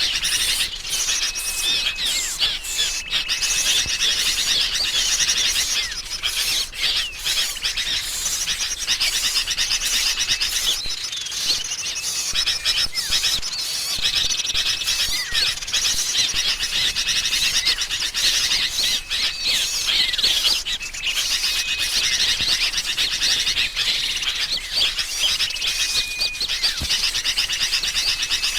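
Bird-lure recording: a dense, continuous chatter of agitated sooty-headed bulbul calls mixed with the chirps of other small songbirds. A short, steady whistle recurs a few times.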